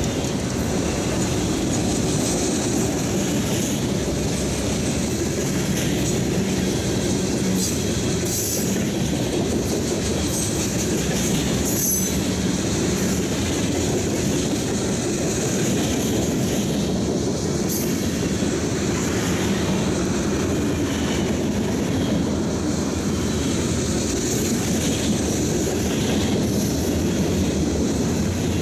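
Norfolk Southern freight train rolling steadily past: steel wheels on rail making a continuous rumble, with clicking over the rail joints and a few brief high wheel squeals.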